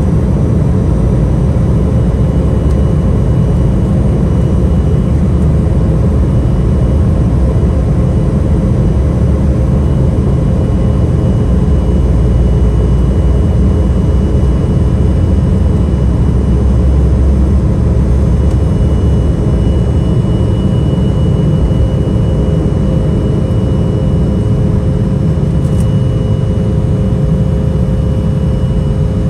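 Embraer E175's GE CF34 turbofan engines running steadily, heard inside the cabin: a heavy low rumble with a few steady whining tones on top.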